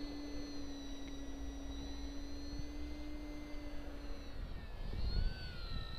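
ParkZone VisionAire RC plane's electric motor and propeller whining steadily in flight, then wavering up and down in pitch from about four and a half seconds in, with low wind rumble on the microphone.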